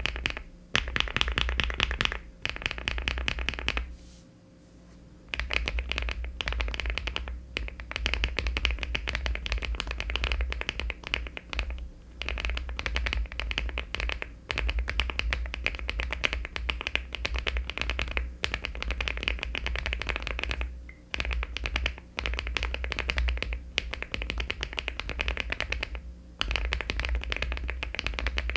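Fast typing on a LEOBOG Hi75 aluminium mechanical keyboard fitted with HMX Perky switches (50 g) and Cherry-profile keycaps: dense runs of keystrokes with brief pauses, the longest about four seconds in.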